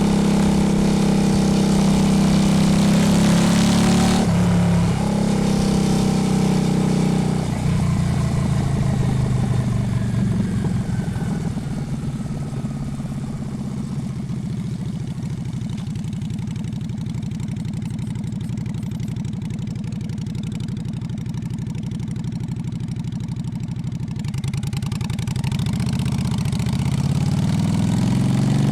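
Honda Shadow V-twin motorcycle engine running under way, with a brief dip about four seconds in. It then eases off and settles to a steady idle for about ten seconds, and revs up again to pull away near the end.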